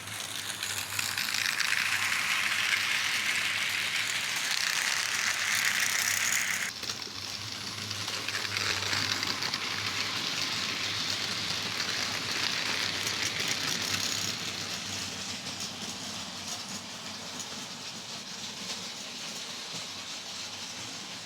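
Model coal train rattling along the track, its wagons clattering steadily. The sound drops abruptly about a third of the way in, drops again about two-thirds of the way in, then fades slowly.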